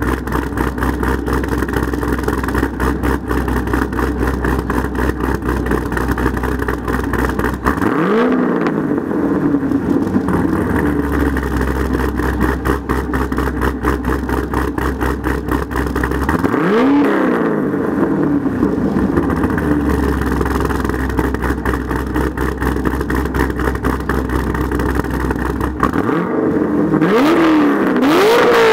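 2011 Corvette Z06's cammed 7.0-litre LS7 V8 idling through Billy Boat Bullet exhaust, with a deep rumble. It is revved once about eight seconds in, again about halfway, and twice in quick succession near the end, each time settling back to idle.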